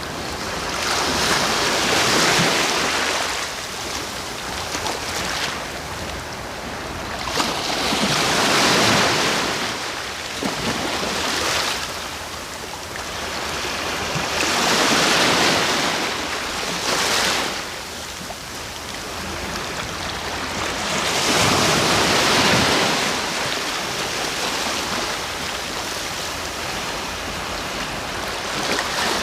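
Sea waves breaking on the shore, one after another: each wave swells into a loud rushing hiss for a second or two, then washes back and dies down before the next.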